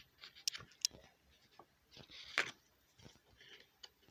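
Paper pages of a CD booklet being turned and handled: soft rustling with small clicks, and one louder rustle about two seconds in.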